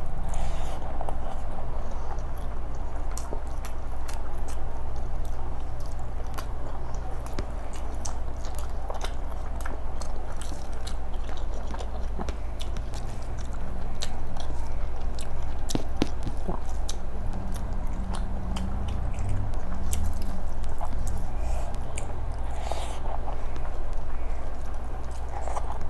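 Close-miked chewing of chicken biryani eaten by hand, with many small sharp clicks of mouth and fingers all through. A steady low hum runs underneath.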